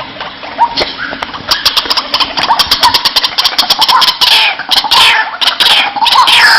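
White-breasted waterhen calling: a fast series of sharp clicking notes starts about a second and a half in, then gives way to loud, repeated calls that fall in pitch.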